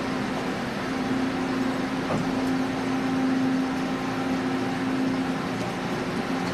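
Railway station platform ambience: a steady machine hum with one constant low tone over a noisy background.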